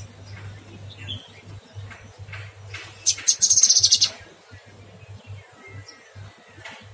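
Cucak kinoy songbird singing: scattered short high chirps, then about three seconds in a loud, fast trill of rapidly repeated notes lasting about a second.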